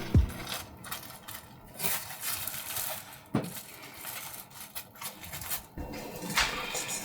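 Kitchen utensils and dishes being handled on a counter: scattered light clinks and knocks about a second apart.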